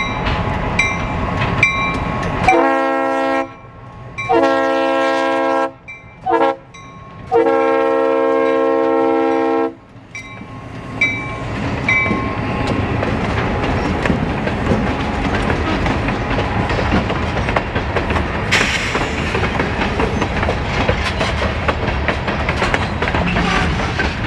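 Freight train's diesel locomotive bell ringing steadily while its air horn sounds the grade-crossing signal: two long blasts, a short one, then a final long blast. The locomotives then rumble past, followed by freight cars clattering over the rail joints.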